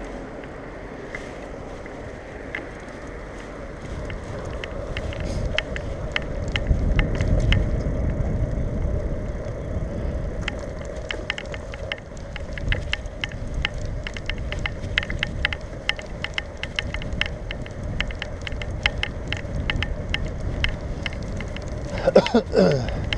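Bicycle being ridden with the microphone on board: a low rumble of wind and tyre noise that grows about four seconds in, and a run of quick, uneven rattling clicks from the bike over the road surface. A short sound with a sliding, falling pitch comes near the end.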